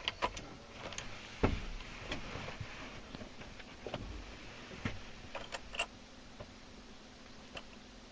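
Scattered faint clicks and ticks, with a soft thump about a second and a half in, as the key is cycled to heat the glow plugs of a Ford Power Stroke diesel before a cold start; the engine is not yet running. A faint steady hum comes in about five seconds in.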